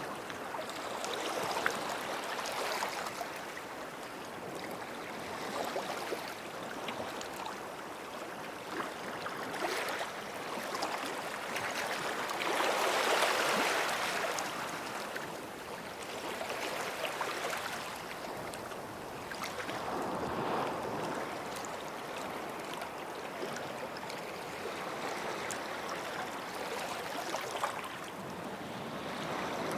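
Small sea waves breaking and washing on the shore, in soft swells that rise and fade every few seconds, the biggest about halfway through.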